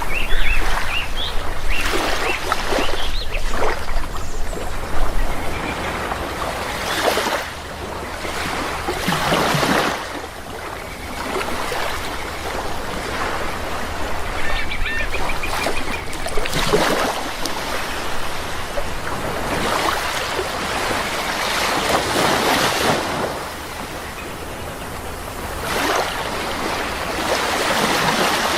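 Sea waves washing ashore in swells every few seconds, with birds calling over the surf, most often in the first few seconds and again about midway.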